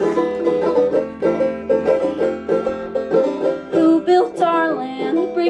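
Live band playing an instrumental passage led by fast, rapidly picked banjo, with other plucked strings underneath.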